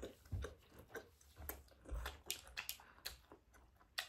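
Chewing and mouth noises of people eating steamed momo dumplings: a run of irregular, soft, wet clicks and smacks.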